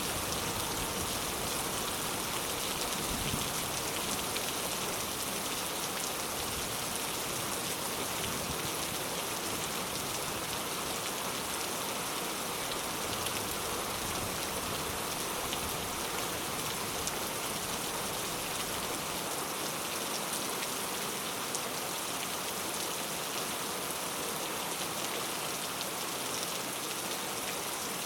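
Steady rain falling, an even hiss of many drops striking a surface.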